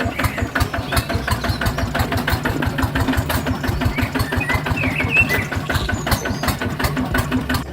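Engine running steadily with a fast, even thumping beat, about seven pulses a second.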